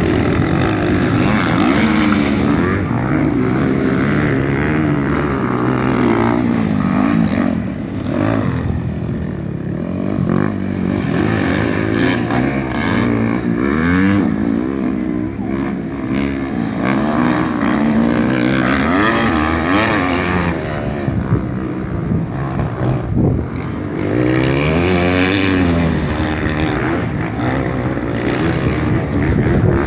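Several motorcycle engines racing, revving up and down, their pitch rising and falling again and again with the engines overlapping.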